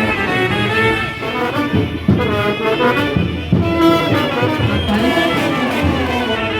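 Brass band playing a melody in held notes over drum hits about once a second.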